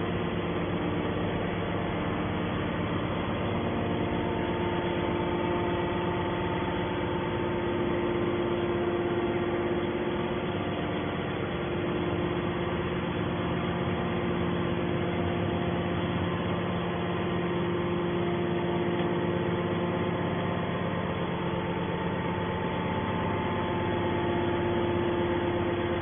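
Hydraulic power unit of a Y81 scrap metal baler running steadily: a constant mechanical hum with several held tones and no knocks or clanks.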